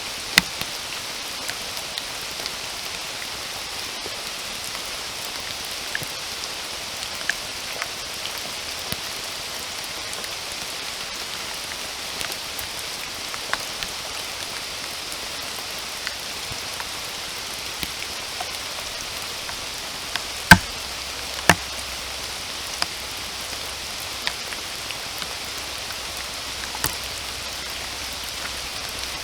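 Steady rain with a constant hiss, dotted with the sharp ticks of individual drops landing close by. Two heavy drips land about a second apart, two-thirds of the way through, and are the loudest sounds.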